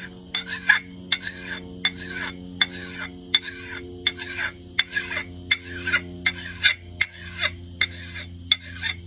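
Hand file drawn across the steel of an axe head, taking down the edge bevel: repeated scraping strokes, each starting with a sharp click, about two or three a second.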